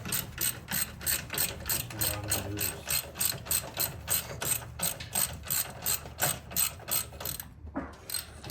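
Hand ratchet wrench clicking steadily, about four to five clicks a second, as a bolt is turned out; it stops briefly near the end and then starts again.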